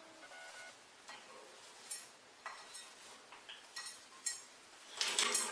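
Scattered light clinks and taps of dishes being handled, a few at a time. A much louder, noisy sound starts near the end.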